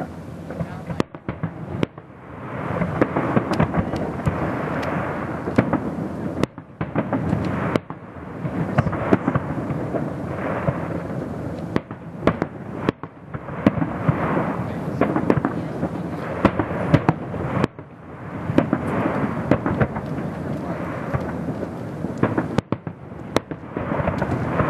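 Fireworks display: many sharp bangs packed close together over a continuous rumble, swelling in loud volleys every few seconds and dropping back in short lulls between them.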